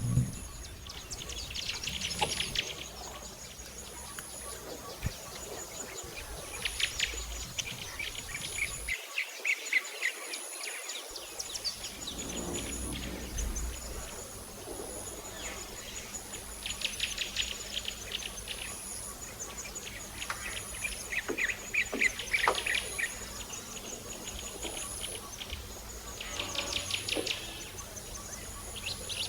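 Pet budgerigar chirping and chattering in short bursts of rapid chirps every few seconds, over a faint high-pitched tone that pulses steadily in the background.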